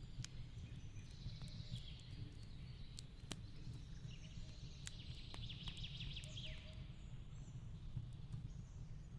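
Fireplace crackling, with sharp scattered pops over a low steady rumble, and birds chirping in the background, with a rapid trill about five to six seconds in.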